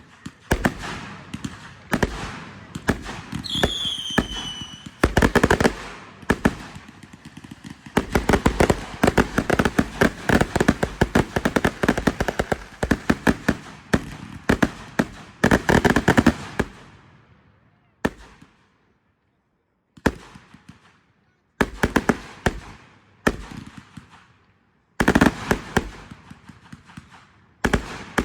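Fireworks going off: a run of sharp bangs, with a short falling whistle about four seconds in. A dense barrage of rapid bangs and crackle follows, then scattered single bangs with brief silences between them.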